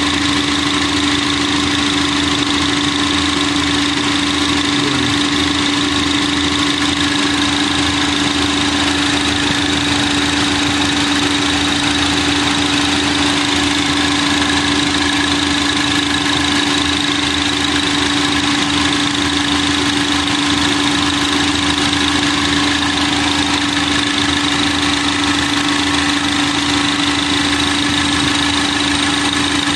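Lincoln car engine idling steadily, with a constant whine over the running noise; the owner reports a misfire since a tune-up, with no trouble codes stored.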